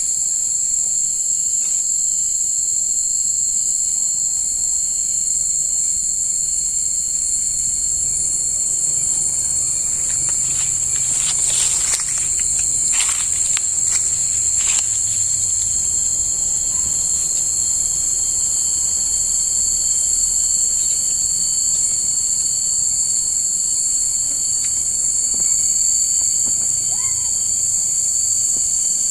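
Steady, shrill, high-pitched insect chorus that runs continuously, with a short cluster of clicks near the middle.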